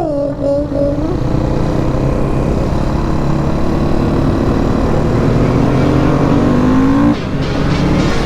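2020 Beta 480 RR supermoto's single-cylinder four-stroke engine pulling hard under throttle, its revs climbing steadily for several seconds, then dropping sharply about seven seconds in.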